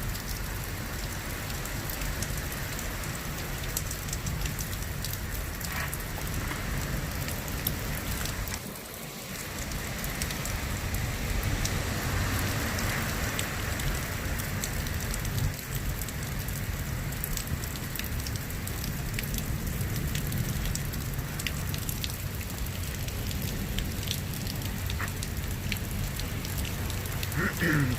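Thunderstorm rain falling steadily, an even hiss with scattered ticks of drops landing close by; it dips briefly about nine seconds in.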